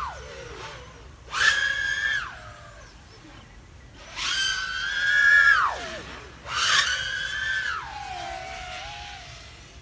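Eachine Diatone ER349 3-inch FPV quadcopter's brushless motors whining high in three throttle bursts: the pitch rises as the throttle comes up, holds, then drops as it is cut. The quad is flying on its tuned Betaflight 4.2 PIDs.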